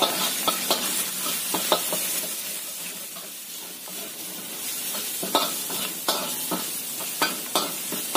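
Minced garlic sizzling in hot oil in a wok, with a metal spatula scraping and clicking against the pan now and then. Sliced onion is pushed in from a wooden board about halfway through, and the sizzle picks up again.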